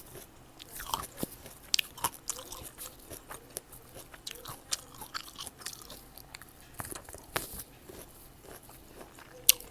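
Close-miked eating of fresh fruit: repeated bites and wet crunching chews, with a sharp, loud crunch near the end.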